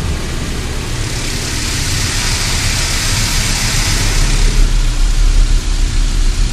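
High-pressure water jets of a touchless automatic car wash spraying against the car, heard from inside the cabin: a loud hiss that swells and then eases after about four and a half seconds, over a low rumble that grows stronger in the second half.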